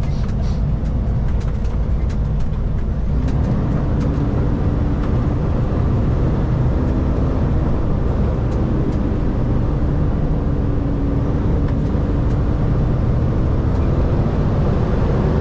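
Kenworth K200 road train heard from inside the cab while driving: a steady low engine and road rumble. A held engine drone joins about three seconds in.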